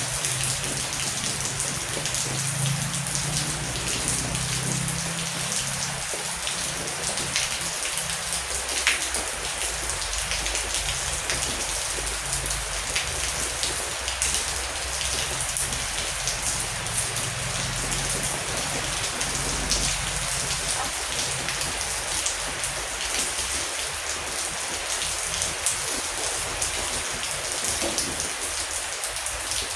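Heavy rain falling steadily, a dense hiss with individual drops ticking through it. A low rumble swells and fades underneath at times.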